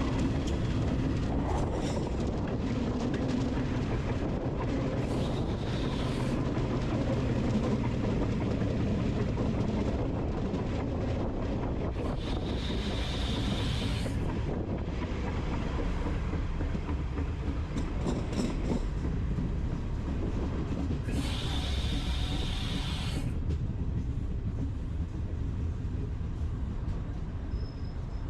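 A train rolling on the rails with a steady low rumble and clickety-clack. Two bursts of hiss come about halfway through and again some twenty seconds in.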